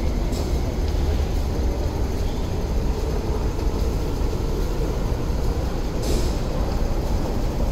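MTR West Rail line electric train running past the platform behind the screen doors: a steady low rumble of wheels and motors, with a short hiss about six seconds in.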